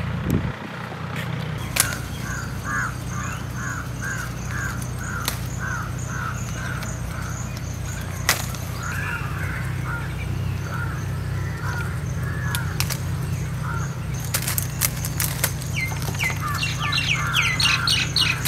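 Birds calling outdoors: a run of repeated short calls about twice a second, then mixed chirps, with a quicker burst of higher chirps near the end, over a steady low hum and a few sharp clicks.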